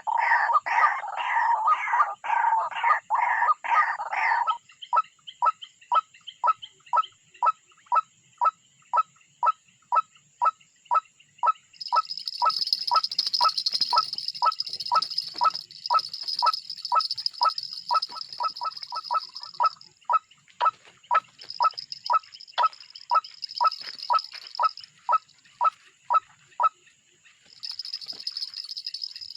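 Birds calling: first a harsh, rapid run of repeated calls, then a long, even series of short piping notes about twice a second. A steady high trill joins the notes partway through and keeps coming and going.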